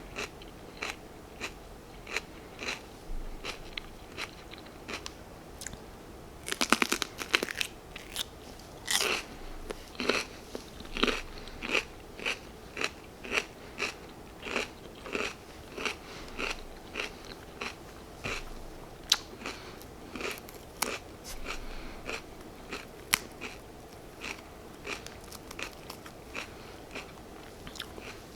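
Raw baby bell pepper being bitten and chewed close to the microphone: crisp, wet crunches about two a second, with a louder crackling bite about a quarter of the way in.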